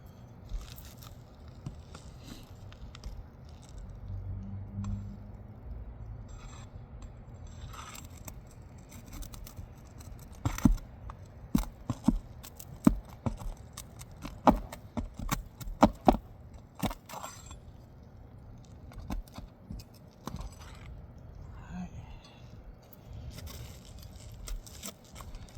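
Steel pry bar working under asphalt roof shingles to break their tar seal: scraping and rustling, with a run of sharp metallic clicks and knocks about halfway through.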